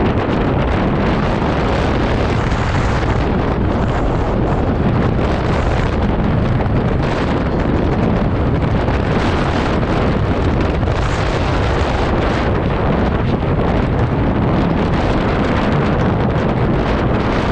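Strong wind buffeting the microphone of a moving scooter, a loud, steady rushing noise that covers any engine sound.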